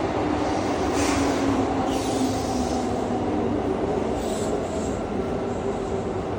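Electric passenger train moving past the platform, a steady loud rumble with a faint high wheel squeal about four seconds in.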